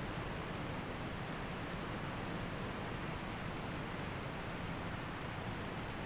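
Waterfall and mountain creek: a steady, even rush of falling and flowing water.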